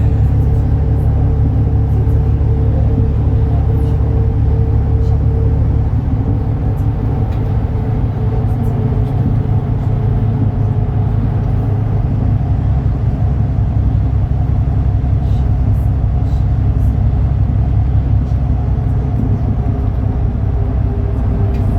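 Diesel engine of a 2012 MAN Lion's City NL293 (A37) city bus running under way, a steady drone whose low note shifts about six seconds in.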